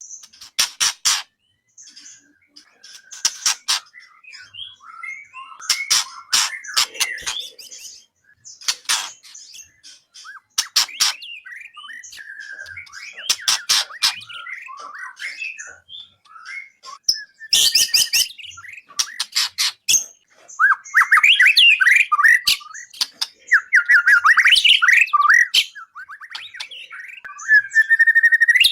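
White-rumped shama (murai batu) singing a varied song of sharp clicking notes, whistled glides and rapid trills. The trilled runs grow denser and louder over the last third.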